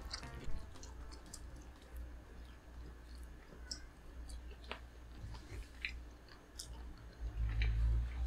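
Crispy buttermilk fried chicken being bitten and chewed: scattered crunches and small crackles of the fried crust. A louder low rumble comes near the end.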